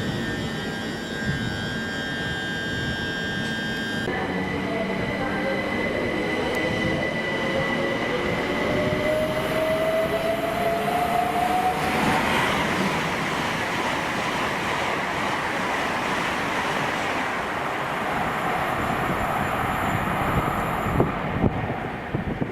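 Passenger train on the main line: a whine rising in pitch as it gathers speed, then the steady rush of the train running past, with a few wheel knocks over rail joints near the end.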